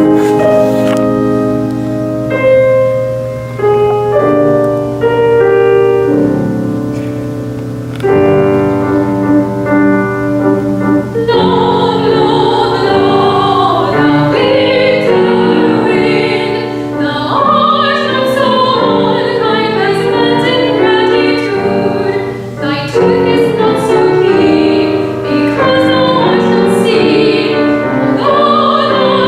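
Classical art song: a piano introduction, then a soprano enters after about eleven seconds, singing in full operatic voice with vibrato over the piano accompaniment.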